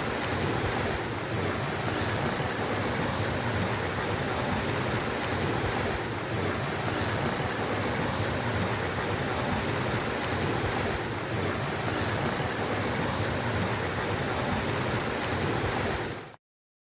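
Flowing stream water, a steady rushing with no break, cutting off suddenly about a second before the end.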